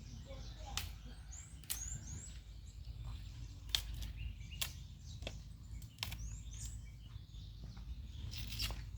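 Small birds chirping in short, high, repeated notes twice, with scattered sharp clicks and knocks over a steady low rumble.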